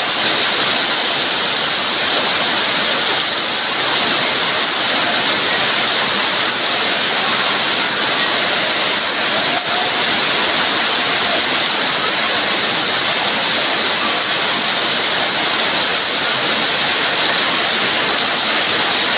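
Heavy rain falling steadily, a dense even hiss of downpour on a wet, puddled yard.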